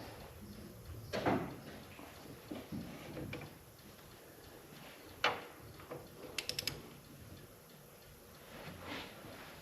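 Hand tools working on a cylinder head: scattered metallic clicks and knocks, including a quick run of four ratchet-like ticks about six and a half seconds in, as the head bolts are tightened after a head gasket replacement.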